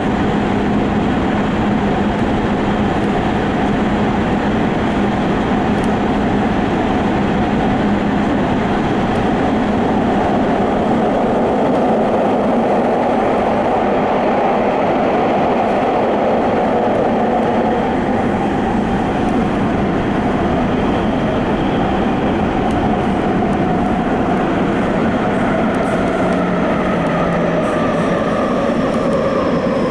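Subway train running through a tunnel, heard from inside the rear cab: a steady rumble of wheels and running noise. Near the end a motor whine falls in pitch as the train slows.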